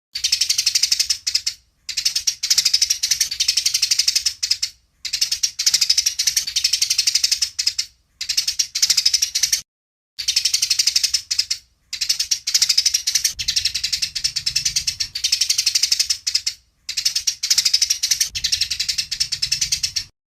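Eurasian tree sparrows chattering in a fast, dense run of sharp notes, the agitated calls of sparrows squabbling. The chatter comes in bouts of a few seconds, each cut off abruptly by a short silent gap.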